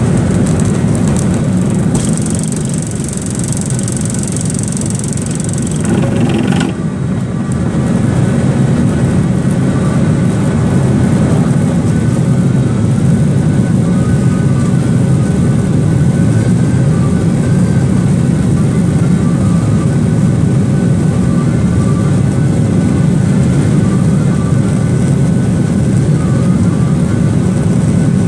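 Steady cabin drone of a Boeing 737-800 in flight: the CFM56 turbofans and the rush of air past the fuselage, heard from inside the cabin. A brighter hiss sits over it for a few seconds near the start and stops with a short burst of noise.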